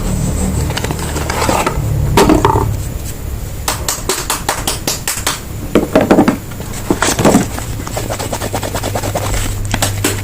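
Soap bars being unwrapped and handled: packaging crinkling and crackling, with scrapes and taps. The loudest handling sounds come about 2, 6 and 7 seconds in.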